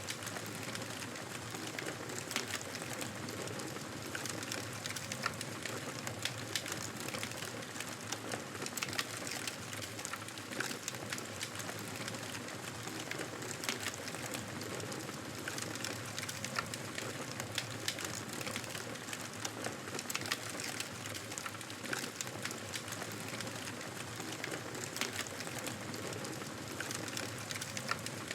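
Wood fire in a fireplace crackling: irregular sharp pops and snaps over a steady hiss of flames.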